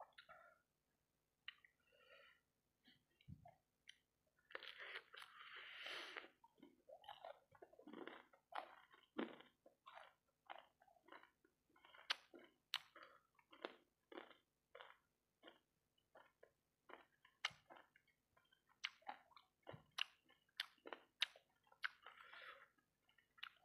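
Chewing and biting of fried rice-ball satay coated in sauce: irregular crunches and mouth clicks about one or two a second, with a longer, denser stretch of chewing noise about five seconds in and again near the end.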